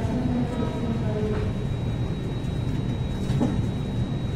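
Steady running rumble of a moving passenger train, heard from its open doorway as it rolls along the track.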